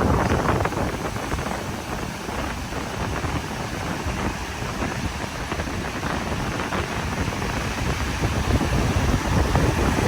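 Wind buffeting the microphone over the steady rush of surf breaking on the beach. The rumbling gusts are strongest at the start, ease off, then pick up again near the end.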